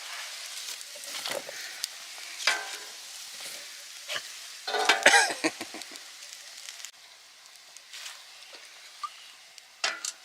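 Steak sizzling over a wood fire, with a few knocks and scrapes of cooking utensils and a louder scrape about five seconds in. The sizzle drops away suddenly about seven seconds in.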